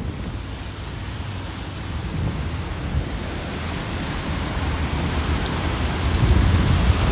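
Steady hiss of heavy tropical-storm rain, with low wind rumble on the microphone growing louder toward the end.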